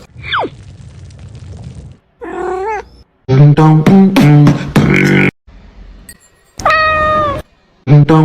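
A string of cat meows and cat-like vocal sound effects, a few short calls with gaps between them. A falling whistle-like glide comes near the start, and a burst of loud rhythmic vocal sounds comes in the middle.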